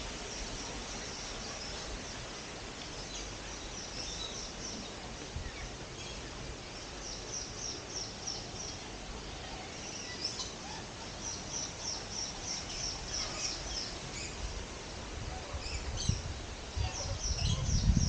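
Small birds chirping in quick runs of short, high notes over a steady outdoor hiss; a louder low rumble comes in near the end.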